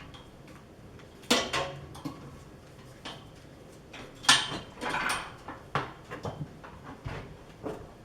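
Irregular sharp clacks, knocks and rattles of hard objects being handled at a drill press, loudest about a second in and again about four seconds in.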